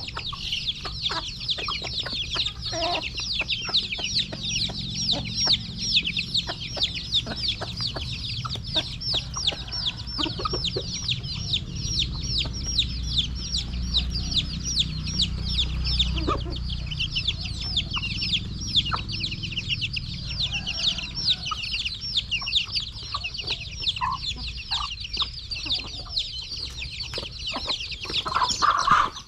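A brood of chicks peeping constantly: a dense chorus of short high-pitched peeps, many a second, with scattered light clicks among them.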